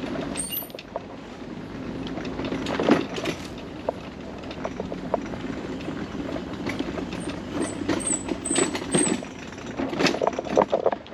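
Mobility scooter running along a boardwalk: a steady motor rumble with irregular sharp knocks, the loudest about three seconds in and near the end.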